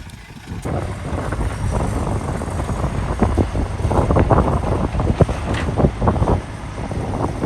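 Heavy earthmoving machinery running, with a low rumble and many short sharp clatters like stone tumbling, and wind buffeting the microphone.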